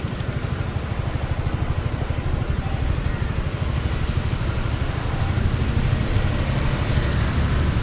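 Honda Forza 350 scooter's single-cylinder engine running, a steady low drone that grows slightly louder about five seconds in.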